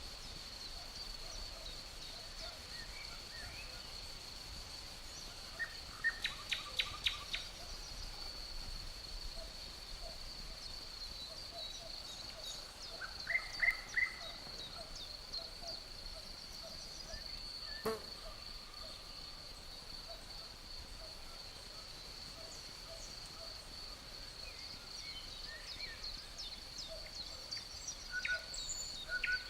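Natural outdoor ambience: an insect keeps up a continuous high, steady trill while a bird sings short phrases of rapid notes three times. A low pulsing chatter runs underneath, and there is a single sharp click about halfway through.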